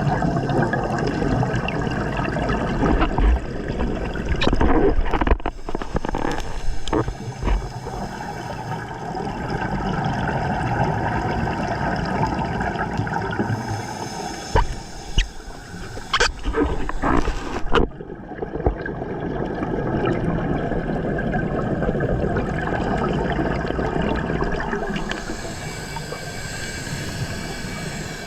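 Scuba diver breathing through a regulator underwater: long swells of rushing, hissing bubble noise from the exhaled air, rising and falling slowly, with a few sharp clicks around the middle.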